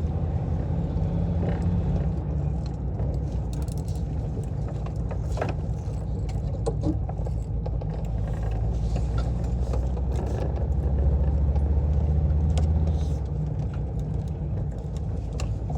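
VW T3 van driving, its engine and drivetrain running steadily as heard from inside the cabin, with a rough note that the owner puts down to an exhaust leak. Light clinks and rattles come through now and then, and the engine drone swells for a couple of seconds about two-thirds of the way through.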